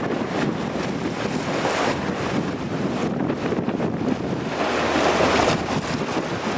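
Strong wind buffeting the microphone, a steady rushing roar with a gust swelling about five seconds in.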